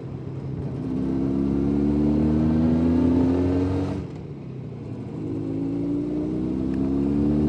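Jawa 350 type 638 two-stroke twin engine pulling under acceleration. Its pitch rises, drops about four seconds in at a gear change, then rises again in the next gear.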